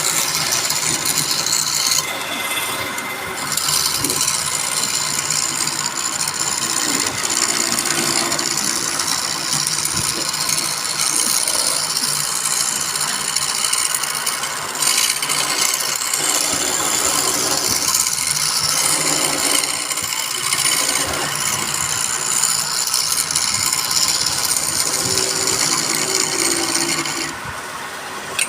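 Turning tool cutting into wood spinning on a wood lathe: a steady, loud scraping hiss that eases briefly a couple of times and drops off near the end.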